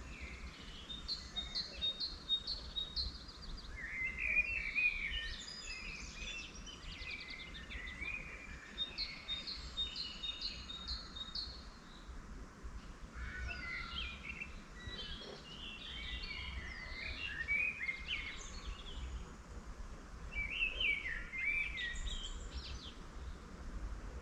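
Several songbirds singing: short runs of evenly spaced repeated notes alternate with quicker, varied warbling phrases, over a low steady rumble.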